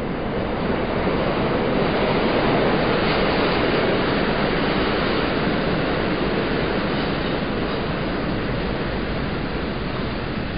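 A train passing: a steady rumbling roar that swells over the first couple of seconds, peaks, then slowly fades as it goes by.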